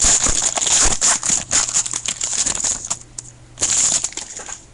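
Plastic wrapper of a trading card pack crinkling and tearing as it is opened, with dense crackling and rustling for about three seconds and one more burst just before the end.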